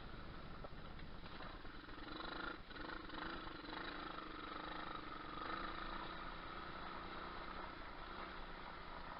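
Moto4 125cc pit bike engine running, its tone swelling and shifting in pitch a couple of seconds in as the throttle changes.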